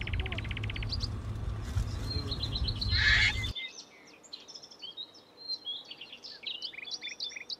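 Small birds chirping and trilling, opening with a fast rattling trill. A low rumble underneath cuts off abruptly about halfway through, just after a brief louder burst, and the chirping goes on in the quieter stretch.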